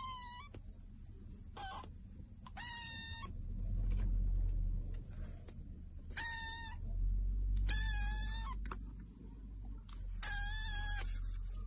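A cat meowing repeatedly: about six high-pitched meows, each under a second long and spaced a second or more apart, over a low background rumble.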